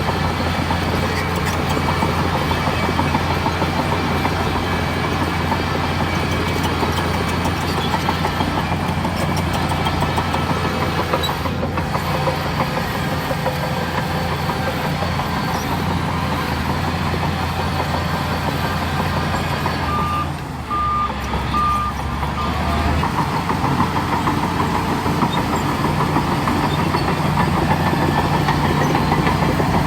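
Heavy diesel engine of a bulldozer running steadily, with a dense metallic clatter. About twenty seconds in the engine note drops for a couple of seconds while a few short high beeps sound, a reversing alarm.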